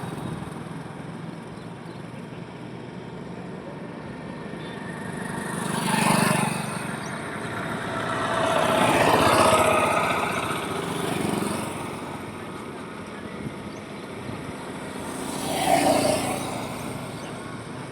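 Highway traffic: vehicles pass one after another over a steady background of road noise. Passes come about six seconds in, a longer, louder one around nine to ten seconds, a smaller one near eleven seconds and another near sixteen seconds.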